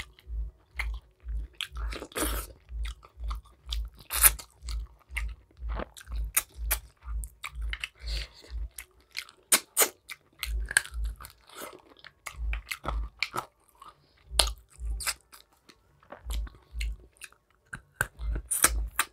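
Close-miked chewing of rice and curried meat eaten by hand: wet mouth smacks and clicks over a steady chewing rhythm of about two chews a second, which breaks off briefly about nine seconds in and then resumes less evenly.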